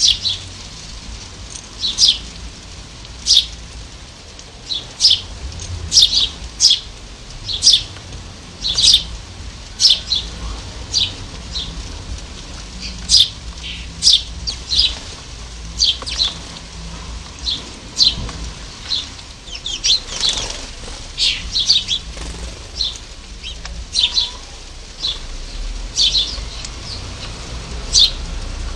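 Small garden birds at a feeder giving short, sharp high-pitched chirps, roughly one a second, over a steady low rumble.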